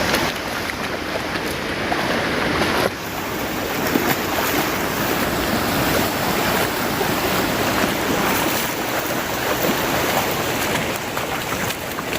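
Stream water rushing steadily at a creek crossing, with a sudden small drop in level about three seconds in.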